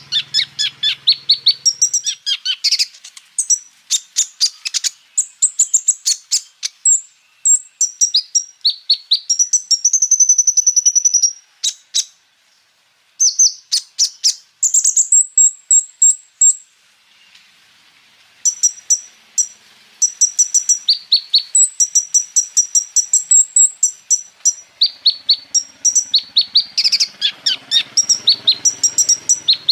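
Kolibri ninja sunbird singing a fast, varied song of sharp high chirps and rolling trills, with a couple of brief pauses around the middle.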